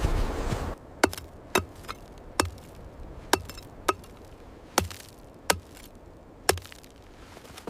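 A steady rushing noise cuts off near the start, then come eight sharp chopping blows at an uneven pace, roughly one a second.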